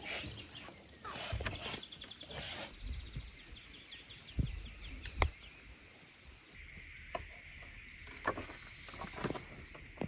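Quiet outdoor ambience: scattered light knocks and clicks, a run of faint high ticking near the middle, and a faint steady high hum that comes in about two-thirds of the way through.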